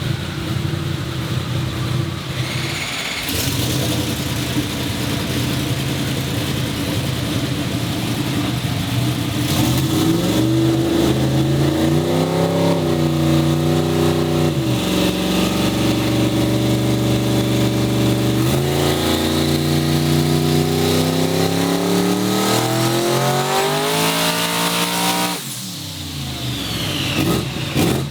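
A vehicle engine making a full-throttle pull on a chassis dyno. It runs steadily at first, then revs up through the gears: the pitch climbs, drops back twice at the shifts, climbs to a peak with a high whine rising alongside, and falls away as the throttle is let off, with a few sharp cracks near the end.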